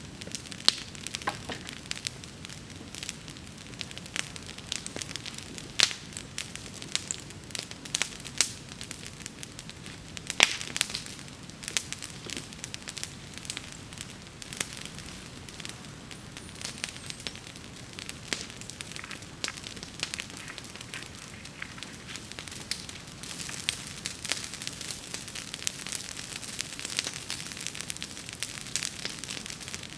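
Wood bonfire burning, with irregular sharp pops and crackles over a steady hiss; a few pops stand out louder, and the crackling grows denser in the last several seconds.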